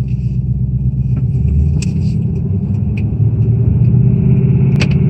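A 2018 Mustang GT's Coyote 5.0-litre V8 running on a cold start, a steady low rumble with a rattle that the owner takes for piston slap, not the high-pressure fuel pump. A few sharp ticks sound over it.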